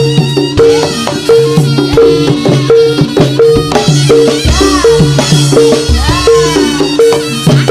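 Loud live music for a Javanese turonggo horse dance: a fast, repeating melodic figure of short struck notes over deep drum strokes and rattling percussion, with a few gliding high tones in the middle.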